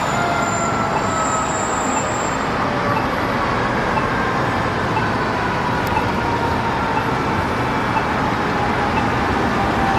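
Steady roadway traffic noise, with a faint tone that glides slowly down in pitch throughout.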